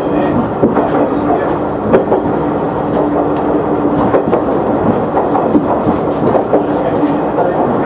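KiHa 100 diesel railcar running along the line, heard from the cab: a steady engine and running-gear hum with a held tone, and wheels clicking irregularly over rail joints.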